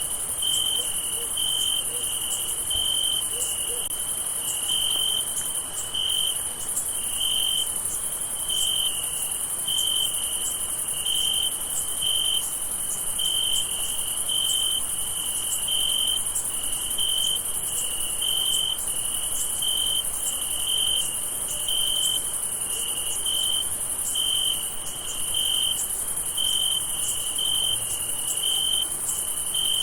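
Crickets chirping at night: a steady, high-pitched insect trill with evenly spaced chirps repeating about one and a half times a second.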